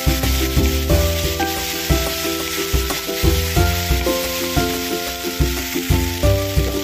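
Chopped okra and green chillies sizzling in hot oil in a pan as they are stirred, under background instrumental music with melody notes and a regular low beat.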